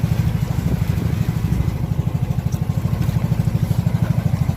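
A small engine running steadily with a fast, even putter of about thirteen beats a second.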